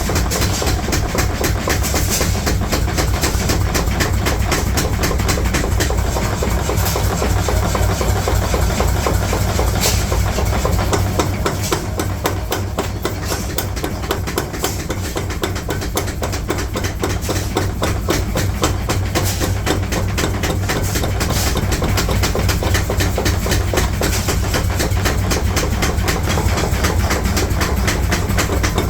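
Rapid metal hammering, many blows a second, over a continuous low machine hum: steel being forged.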